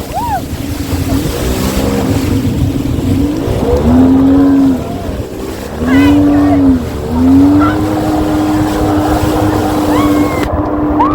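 Jet ski engine running at speed. Its pitch drops and climbs back about three times in the middle as the throttle is eased off and opened again, then holds steady.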